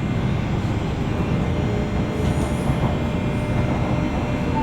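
Interior running sound of a JR West 201 series commuter electric train, heard from inside car MoHa 201-193 above its armature-chopper equipment: a steady low rumble of the car and its wheels on the track, with faint steady tones from the electrical gear.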